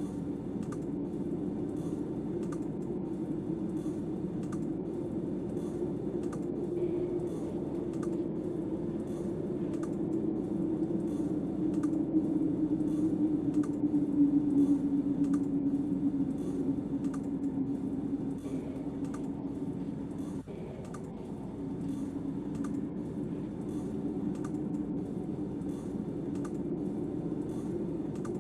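Snowstorm wind howling, a low moan that wavers up and down in pitch and swells about halfway through, with light regular clicks about twice a second.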